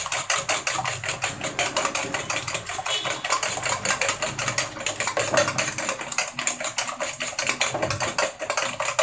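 Egg and tomato frying in hot oil in a pan: a dense, steady sizzle of rapid crackles and pops. The pan is hot enough that the egg is at risk of burning.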